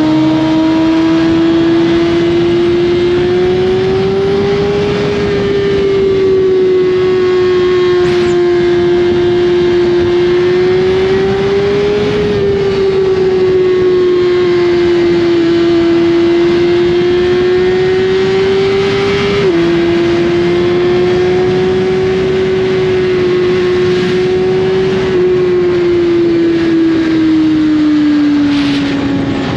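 A Suzuki GSX-R1000's inline-four engine running through an Austin Racing slip-on exhaust at a steady cruise, its pitch rising and falling gently with the throttle. The pitch drops suddenly once, about two-thirds of the way through.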